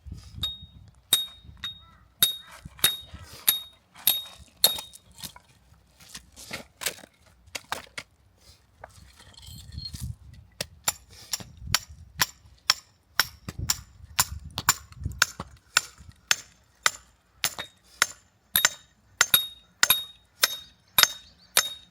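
Repeated sharp strikes of metal on metal, each with a short high ringing ping. They come irregularly at first, then settle into a steady run of about two strikes a second from about halfway through.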